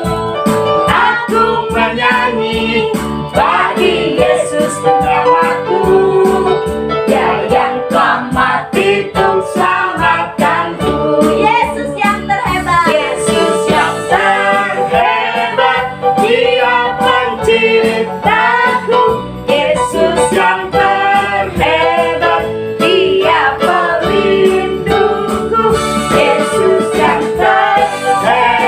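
Worship song sung in Indonesian over instrumental accompaniment with a steady beat.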